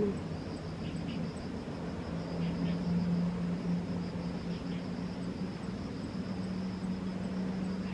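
Outdoor hillside ambience: a steady low hum and a hiss of wind, with a faint steady high buzz of insects.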